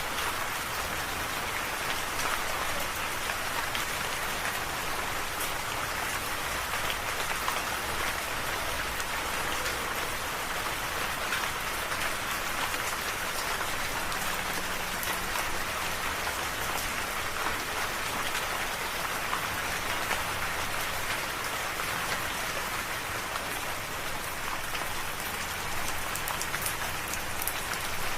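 Steady rain falling on a surface: an even hiss with scattered sharp drop ticks, no thunder.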